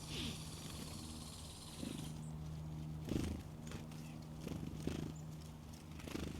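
Faint soft rustles and light thumps, five or so, over a steady low hum. A high buzzy sound fills the first two seconds.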